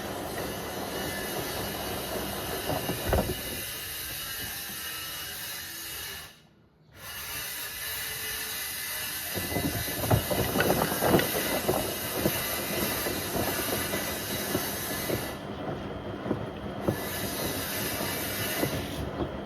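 Beko WM74135 washing machine washing a toaster and kettle: water swishing with the drum turning and hard knocks as the items tumble. The sound drops briefly about six and a half seconds in, then comes back with heavier, more frequent clattering.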